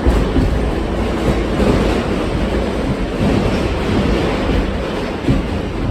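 R68 subway car running along the track at speed: a steady, loud roar of wheels on rails and running gear, with a few small knocks.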